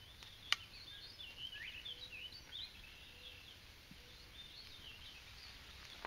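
A songbird singing faintly, a long run of quick chirps that rise and fall in pitch, with one sharp click about half a second in.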